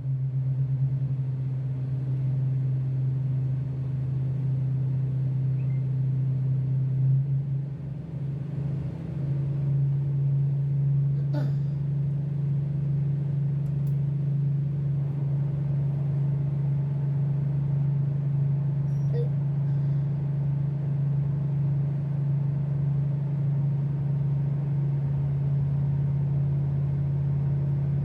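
Tugboat diesel engines running with a steady low drone while the tug works a barge. The drone dips and wavers briefly around eight seconds in, then settles back to an even level.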